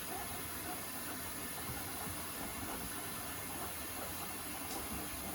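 Beko WTK104121A washing machine filling with water at the start of a rinse programme: a steady hiss of water running into the drum.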